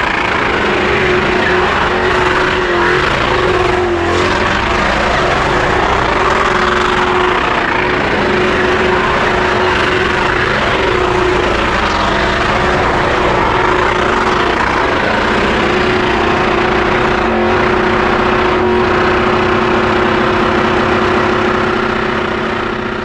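Car engines running and revving as show cars drive past in a parade, with a steady engine drone underneath.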